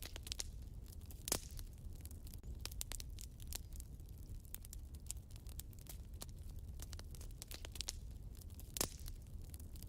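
Wood fire burning in a fireplace: a steady low rumble of flame with frequent small crackles and two louder pops, about a second in and near the end.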